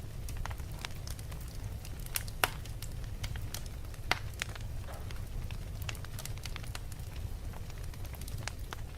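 Wood fire in a fireplace crackling, with irregular sharp pops and snaps, two of them louder about two and a half and four seconds in, over a steady low rumble.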